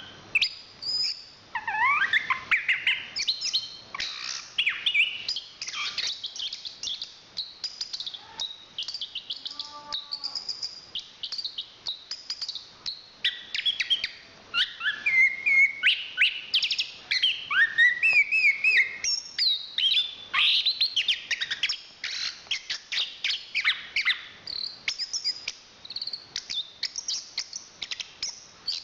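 Chestnut-capped thrush (anis kembang) singing a long, continuous, fast song of varied whistles, rising and falling sweeps and rapid trills, with barely a pause.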